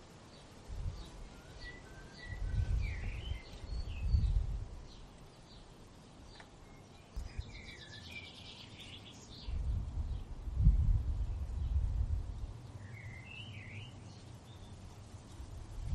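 Several songbirds chirping and singing short whistled phrases, with a fast trill in the middle. Gusts of wind rumble low on the microphone twice and are the loudest part.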